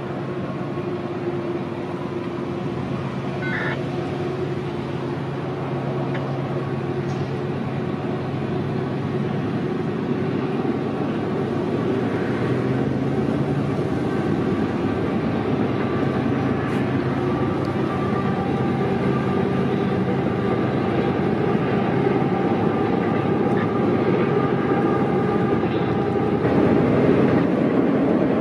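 Diesel-electric freight locomotives, Canadian Pacific and Union Pacific units, hauling a train across a steel trestle: a steady engine drone that grows louder as the train comes on, louder again near the end as the train noise fills in.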